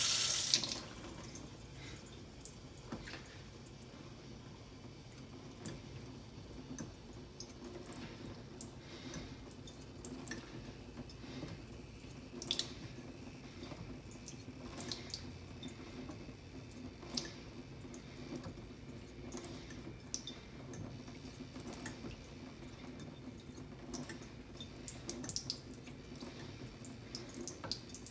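Tap water running into a sink, shut off about half a second in. Faint drips and light clicks follow over a steady low hum.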